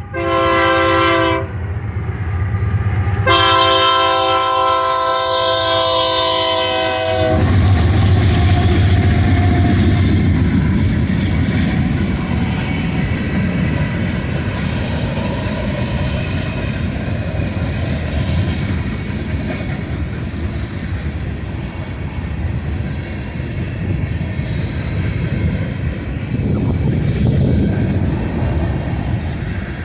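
Diesel freight locomotive's multi-chime air horn sounding one short blast and then a long blast of about four seconds, the closing blasts of a grade-crossing signal. Then the train rolls past with a steady heavy rumble and wheels clicking over the rail joints.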